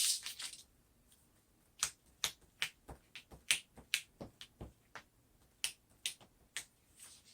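Sticky vinyl transfer tape being handled, starting with a short rustle and then giving irregular sharp crackling clicks about two a second as it is worked to take off some of its tack.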